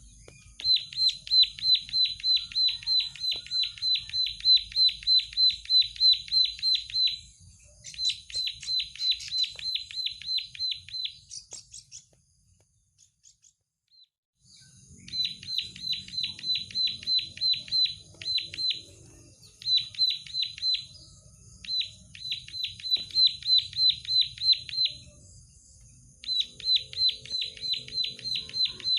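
Prenjak sawah (prinia) singing: long runs of sharp, high repeated chips, about four a second, in bouts. The song stops for about two seconds near the middle and then goes on.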